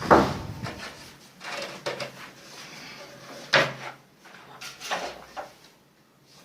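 A few irregular wooden knocks and bangs, the loudest right at the start, from carpentry work on doors and timber.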